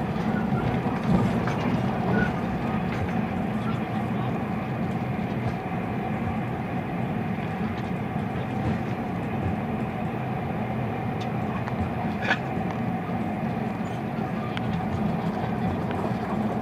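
Steady rumble of a passenger train carriage in motion, heard from inside the car, with one brief sharp click about twelve seconds in.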